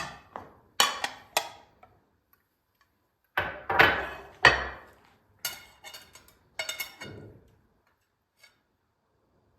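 Kitchenware being handled: a series of sharp knocks and clinks with short ringing, the heaviest thuds coming about three and a half to five seconds in, then quieter clinks before it falls still.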